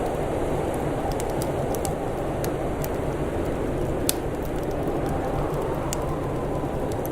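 Wood fire crackling, with scattered sharp pops and one louder snap about four seconds in, over a steady low rush of wind with a faint howl rising and falling.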